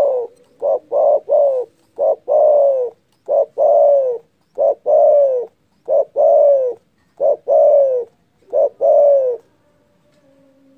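Spotted dove (derkuku) cooing loudly: repeated phrases of a short coo followed by a longer coo that falls in pitch, about six phrases in a row, stopping near the end.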